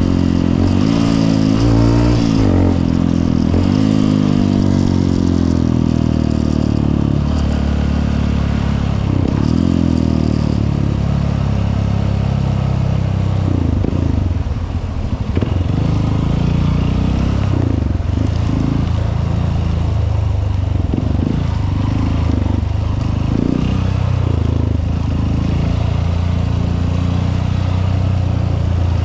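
Honda CRF150L's single-cylinder four-stroke engine running under way, its pitch rising and falling with throttle and gear changes during the first ten seconds or so, then holding a steadier, lower note.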